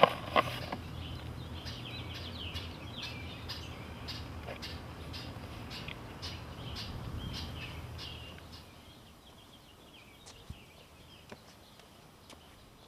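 Small birds chirping repeatedly over a low rumble that fades out about eight seconds in. Two sharp clicks come right at the start.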